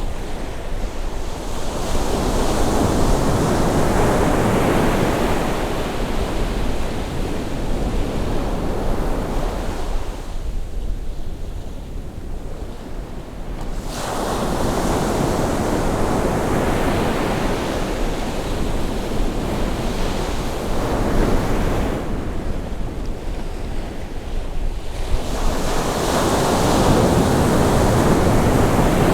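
Sea waves breaking and washing up the shore on a rising tide: a steady rush of surf that swells and ebbs in long surges. One wave comes in suddenly about halfway through, after a lull. There is a low rumble of wind on the microphone throughout.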